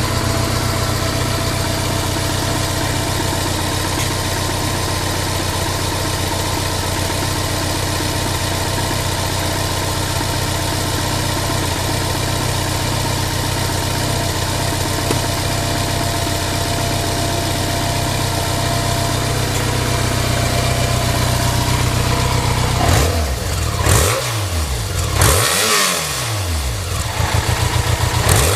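BMW K1100RS motorcycle's 1092 cc inline-four engine idling steadily, then blipped about four times near the end, the revs rising and falling quickly each time. The engine runs with no abnormal noise, by the seller's account.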